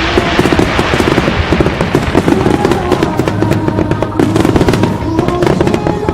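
Fireworks going off in a dense, rapid run of crackling bangs.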